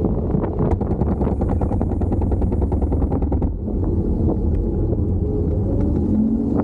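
Wind buffeting the microphone while riding a Kaabo Wolf King GT Pro electric scooter, with a steady road rumble and many small rattles and clicks. Near the end a motor whine rises in pitch as the scooter speeds up.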